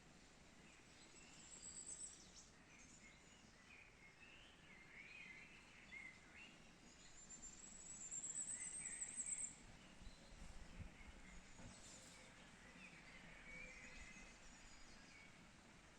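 Faint outdoor birdsong: several birds chirping on and off over a steady soft hiss. A high, fast trill comes about two seconds in, and a longer one near the middle.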